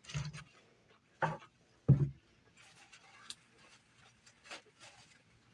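Close-up eating sounds: a few short bumps and mouth noises in the first two seconds, then soft scattered smacking and chewing clicks.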